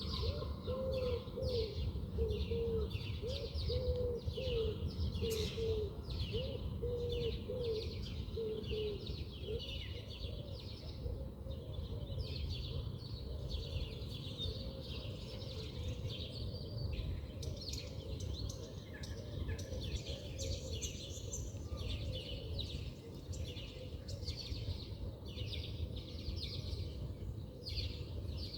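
Several wild birds chirping and twittering continuously, with a low call repeated many times over the first third that then stops, over a steady low rumble of background noise.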